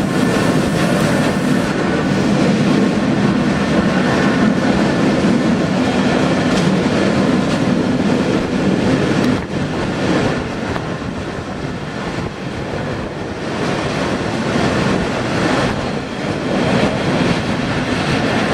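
Train on a Swiss mountain railway running along the track, a continuous steady sound that dips somewhat about nine seconds in and builds again toward the end.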